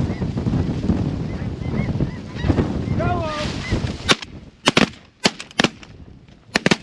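Snow geese honking over low wind rumble on the microphone, then a rapid volley of about eight shotgun blasts from several hunters in the last three seconds.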